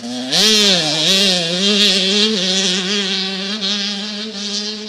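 Motocross bike engine revving up sharply, dipping once, then running at steady high revs with small wobbles in pitch, easing off near the end.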